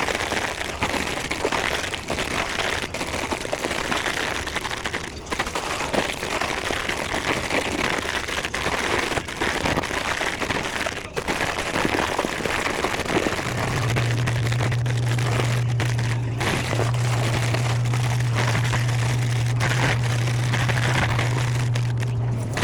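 Plastic snack bags crinkling and rustling with small clicks and knocks as a snack vending machine is restocked by hand. About halfway through, a steady low hum starts and continues.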